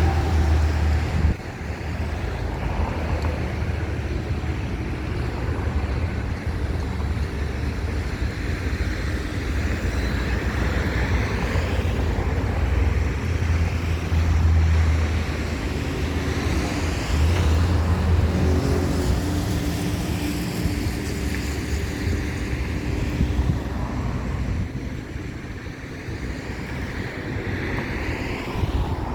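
Road traffic passing on a busy avenue, vehicles swelling and fading one after another, with wind buffeting the microphone as a heavy low rumble.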